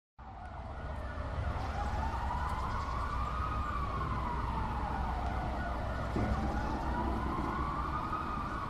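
Emergency-vehicle siren in a slow wail, fading in and rising and falling about twice, over a low rumble of street traffic.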